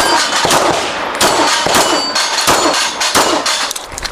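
A string of pistol shots fired in quick succession, each hit on a steel target answered by a ringing clang.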